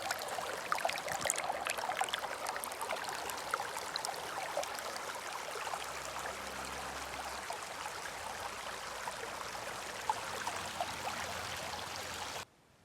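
Running water, a steady rushing with fine splashy crackle, that cuts off suddenly near the end.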